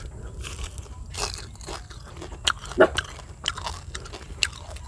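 Close-up biting and chewing of crispy deep-fried fish, the small bones crunching in irregular sharp crunches, the loudest nearly three seconds in.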